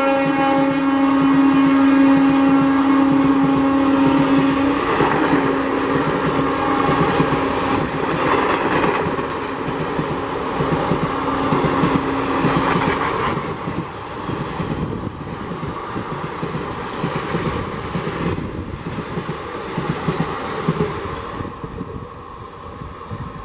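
An electric locomotive's horn is held as a long steady blast for about five seconds, then carries on fainter until about halfway through, over the rumble of a fast train's coaches rushing past. After that the coaches' wheels run on with a rhythmic clatter over the rail joints, fading near the end.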